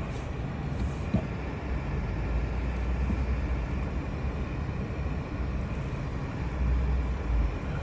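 Vehicle engine running with a steady low rumble, with one short click about a second in.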